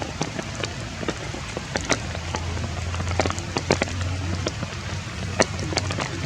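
Steady rain, with many irregular individual drops striking a surface.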